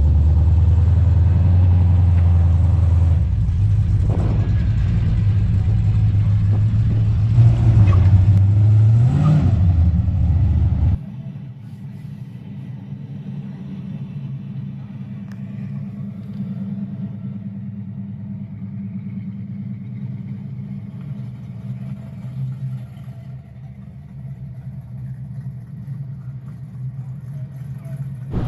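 A car engine idling with a steady low rumble, briefly revved about nine seconds in. About two seconds later the sound drops suddenly to a quieter, steady low hum.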